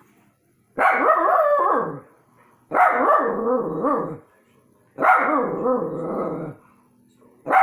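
A dog barking in long, drawn-out calls with wavering pitch, each over a second long: three in a row about two seconds apart, and a fourth starting at the end.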